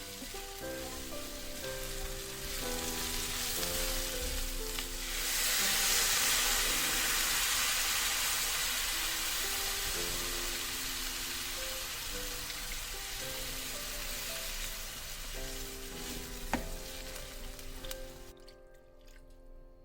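Food sizzling as it fries in a hot pan, loudest for several seconds in the middle and dropping away near the end, with soft background music underneath.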